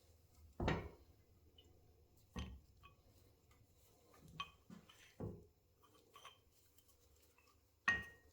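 Workbench handling noises: four sharper knocks of tools or metal parts being set down, with small clinks and ticks in between.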